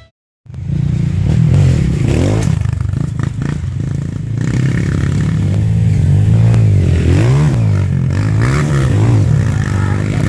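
Off-road motorcycle engine running and revving, its pitch rising and falling again and again as the throttle is worked, more often in the second half.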